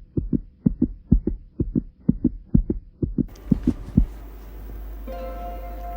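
Heartbeat sound effect: paired low lub-dub thumps, about two beats a second, stopping about four seconds in. Under the last beats a steady synth drone comes in, with a held tone added near the end as the song's backing music begins.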